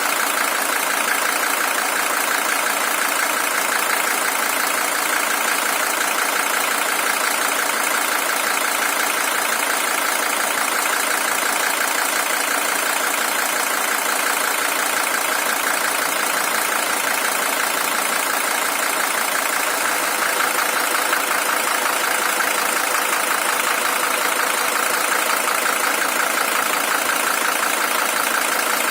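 Mercedes-Benz W123 300TD's OM617 five-cylinder diesel engine, original with 620,000 km on it, idling steadily with an even, rapid clatter.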